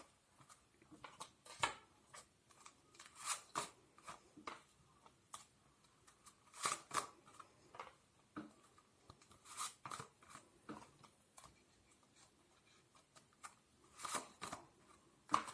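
Tarot cards being handled: faint, scattered snaps and rustles as cards are shuffled and drawn, with short quiet gaps between.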